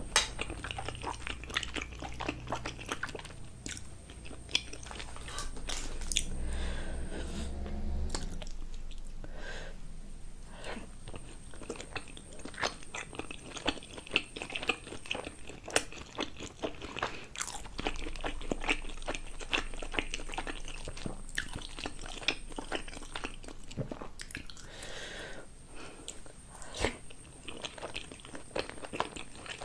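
Close-miked chewing of steamed momo dumplings: a steady stream of small mouth clicks and chewing sounds.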